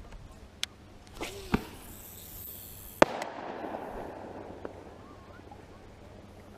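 Fireworks or firecrackers going off: a few sharp bangs, the loudest about three seconds in, its echo rolling away over the next couple of seconds.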